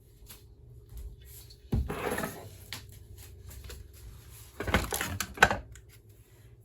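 Cookware being handled on a kitchen counter: two bursts of knocking and clattering, about two seconds in and again about five seconds in, as the pot of pasta mixture is brought over.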